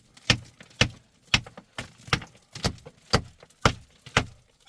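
A steady, even series of sharp impacts, about two a second.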